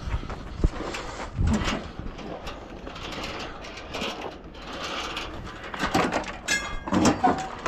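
Hand tools working on an engine's metal fasteners: scattered knocks, clicks and scraping, with a brief high squeak about six and a half seconds in.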